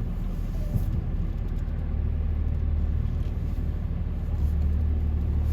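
2003 Dodge Ram pickup's engine running with a steady low rumble while the truck creeps forward in the car wash line.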